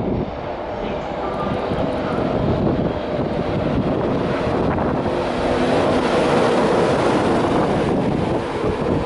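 Class 91 electric locomotive hauling a rake of Mk4 coaches past on the main line: a continuous rumble of wheels on rail with the locomotive's running noise, growing louder as it draws near and loudest about two-thirds of the way in as it goes by.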